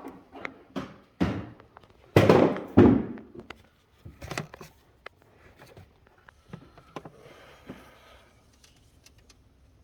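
Objects being handled on a bench: a run of knocks and clicks with rustling or scraping, the loudest about two to three seconds in, then lighter clicks.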